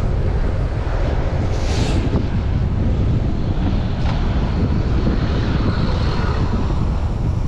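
Strong wind buffeting a chest-mounted camera's microphone during a bicycle ride, a loud, steady low rumble. A brief hiss rises over it about two seconds in.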